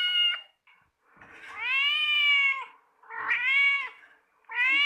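Cat meowing in a series of separate meows: a long drawn-out one about a second in, a shorter one around three seconds, and another beginning near the end.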